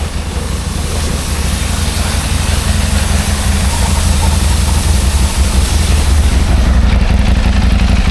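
Motorcycle engine running steadily at low revs while riding, with wind hiss over the microphone.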